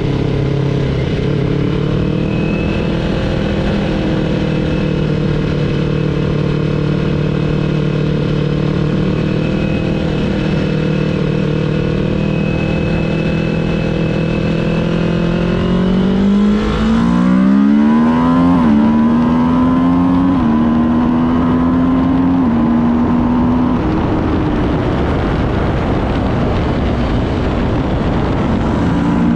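Kawasaki Ninja 400cc parallel-twin engine heard onboard, running at an even pitch for the first half. It then accelerates hard, the revs climbing and dropping back through about four upshifts. Near the end a rush of wind noise all but covers the engine.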